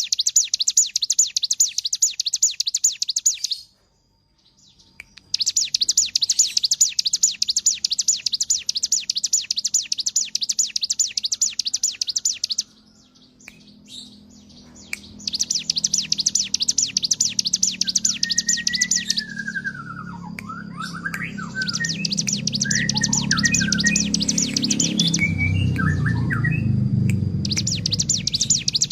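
A ciblek gunung (prinia) singing its fast, buzzy high trill in long bursts of several seconds, broken by short pauses about 4, 13 and 19 seconds in. In the second half, shorter whistled chirps from another bird come in, and a low rumble swells and then fades near the end.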